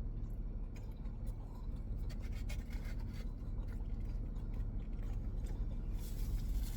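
A person chewing a mouthful of saucy steak taco, with small scattered clicks and wet mouth sounds over a low steady hum.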